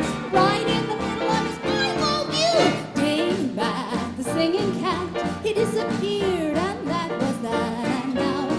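A big band dance orchestra playing a 1930s-style number live, full ensemble with a melody line that slides between notes.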